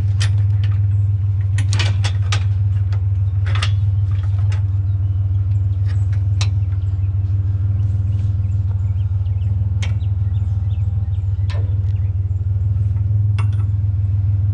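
Truck engine idling steadily as a low hum, with scattered metallic clinks and knocks from scrap and bungee-cord hooks being handled. The clinks come thickest in the first few seconds and then only now and then.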